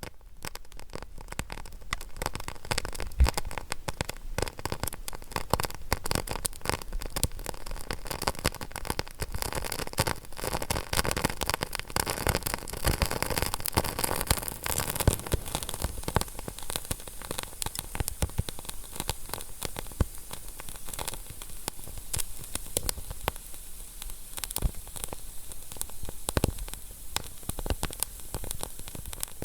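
Fireplace ambience: a wood fire crackling and popping with many irregular small snaps over a steady hiss.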